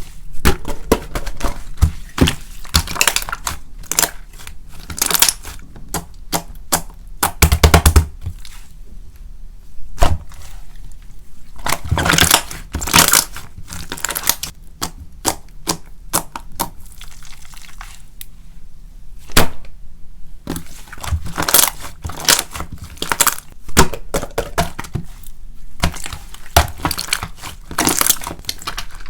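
Pink slime mixed with instant snow being squeezed, pressed and stretched by hand, giving an irregular stream of sticky pops, crackles and air-bubble clicks, with a few louder snaps. The added snow makes the bubble pops less distinct.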